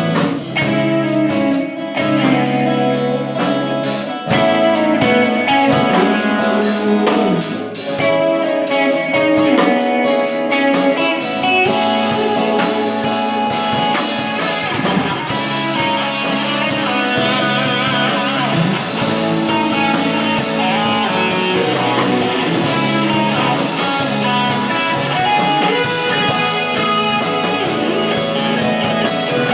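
Electric guitar played continuously through a Boss GT-100 multi-effects processor into two amplifiers in stereo, with a run of blues-flavoured notes and phrases.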